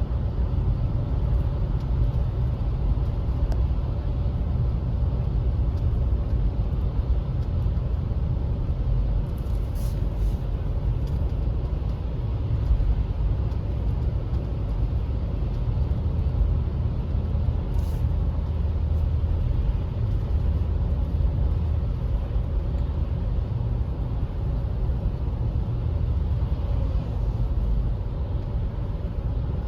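A car driving at a steady pace: a continuous low rumble of engine and road noise, with a couple of faint brief ticks around the middle.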